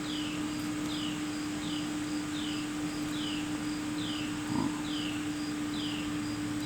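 Night insects chirping: a steady high pulsing about twice a second and a falling chirp repeating about every 0.7 s, over a steady low hum.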